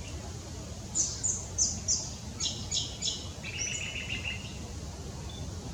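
Eastern yellow robin calling: a quick string of short, high chirps, then a lower, rapid trill for under a second, over a steady low background rumble.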